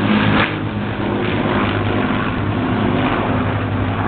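Propeller aircraft flying overhead, the steady drone of a Rolls-Royce Merlin V12 piston engine of a WWII fighter.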